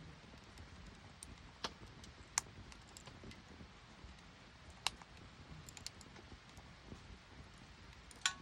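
Wood fire burning in a mini kamado stove, crackling faintly with scattered sharp pops, four of them louder than the rest.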